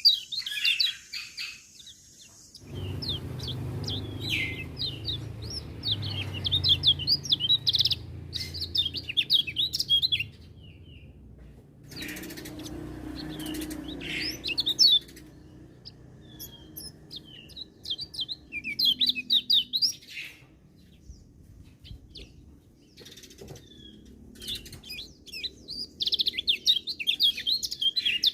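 Kecial kuning white-eye singing in rapid, high twittering phrases, about five bursts with short pauses between them, over a low rumble that comes and goes.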